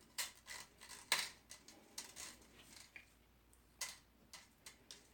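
Scattered light clicks and taps of small objects being handled, the sharpest about a second in and another near four seconds.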